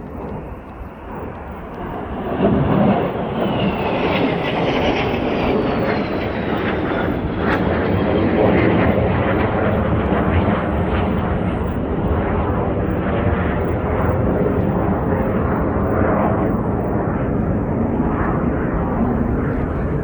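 Swiss Air Force display aircraft flying over. The engine noise rises sharply about two seconds in and stays loud, with a faint falling whine a little later.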